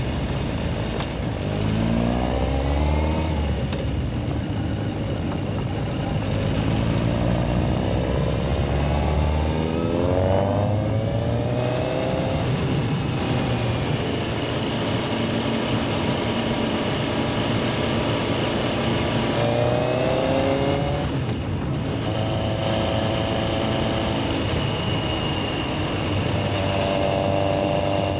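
Yamaha XJR1300's air-cooled inline-four engine pulling away and accelerating, the revs rising several times (a couple of seconds in, around ten seconds in and around twenty seconds in) with steadier running between.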